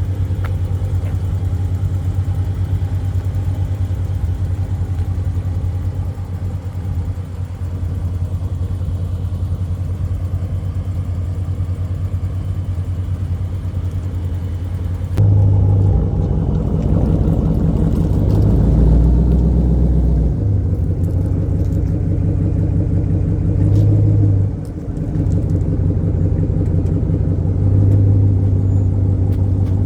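Muscle car engine running with a steady deep rumble. About halfway through, the sound cuts to a louder, deeper rumble that swells and eases a few times.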